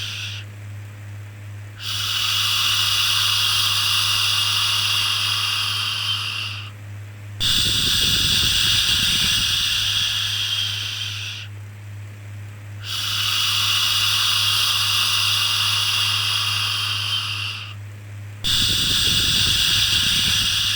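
A long shushing 'shhh', repeated about every five and a half seconds with a short pause between each, over a steady low hum.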